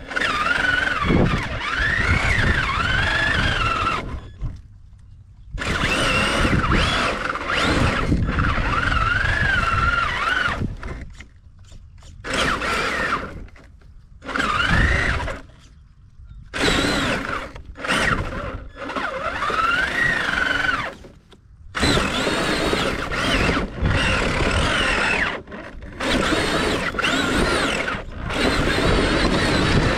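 Electric radio-controlled truck driven in bursts: its motor whine rises and falls in pitch with the throttle over a rough rattle of gears and tyres, stopping and starting every few seconds.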